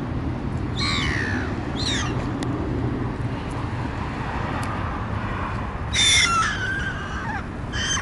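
Four short bird calls, each falling steeply in pitch, at about one second, two seconds, six seconds (the loudest) and near the end, over a steady low rumble.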